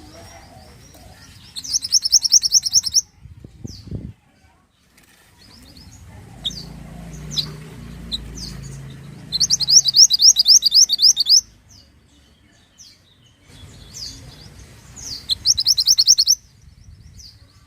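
Mantenan songbird singing: three fast trills of rapidly repeated high, sharp notes, each lasting one to two seconds, with single high chirps scattered between them.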